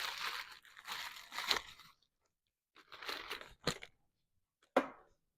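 Parts and packaging being shoved aside on a workbench: rustling and crinkling in bursts, with two sharp knocks in the second half.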